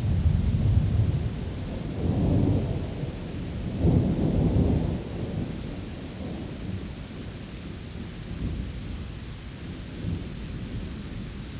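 Steady rain with rolling thunder: low rumbles swell a few times in the first five seconds, then die back, leaving the even patter of rain.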